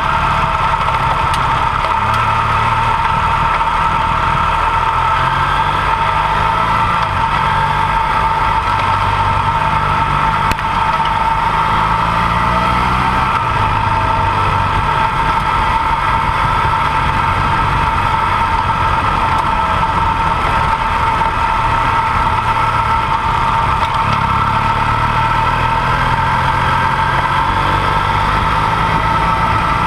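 Dual-sport motorcycle engine running under way on a dirt road, its pitch stepping up and down with throttle and gear changes, over a steady high hum.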